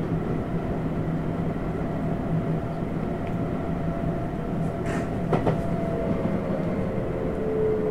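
Tokyu 7700 series commuter train running, heard from the front of the train: a steady running noise with a low hum. There are two sharp clicks about five seconds in, and a steady tone comes in near the end.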